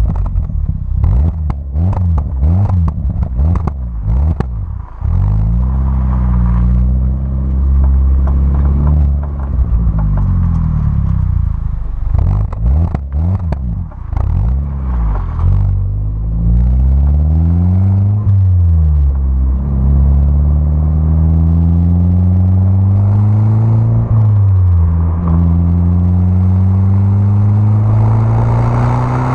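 Peugeot 207 RC's exhaust as the engine is revved: several quick throttle blips in the first few seconds, then longer pulls where the revs climb and drop back, over a steady idle.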